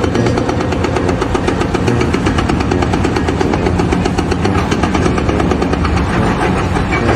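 A loud engine running steadily, close by, with a fast, even pulsing beat.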